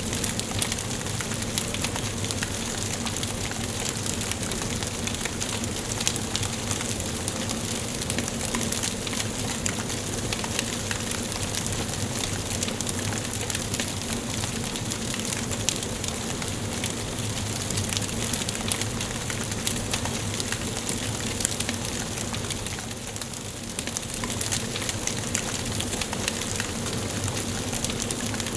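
Wood fire burning in a fireplace: a steady hiss with frequent small crackles and pops from the burning logs.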